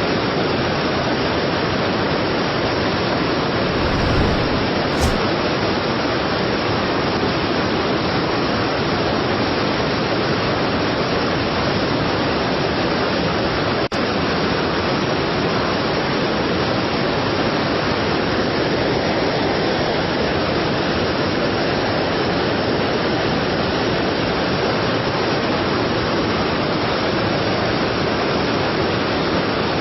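Strong waterfall: a steady, dense rush of falling water. A brief low thump comes about four seconds in and a faint click near the middle.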